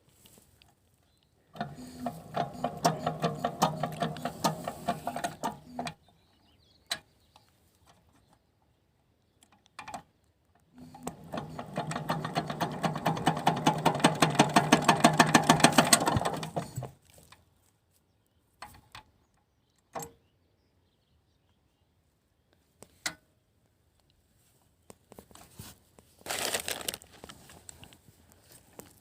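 Small water pump engine turning over in rapid, regular strokes, in two bursts of several seconds each that stop again. The second burst builds louder. A short rattling burst comes near the end.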